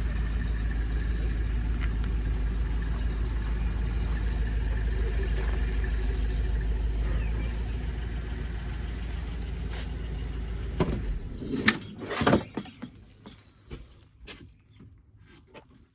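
A vehicle engine idling steadily, shut off about eleven seconds in, followed by a few loud thumps and some faint clicks.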